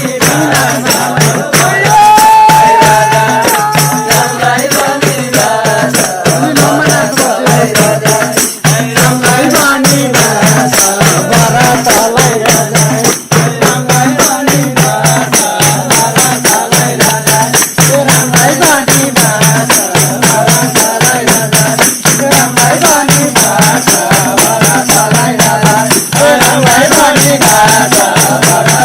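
A group singing a repeated folk chant in chorus over fast, steady percussion.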